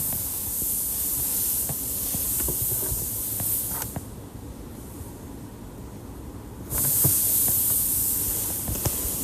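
A high-pitched hiss of air blowing from a nozzle, in two long bursts that start and stop abruptly: one for the first four seconds, then another from about seven seconds in. Small clicks and taps sound in the gap.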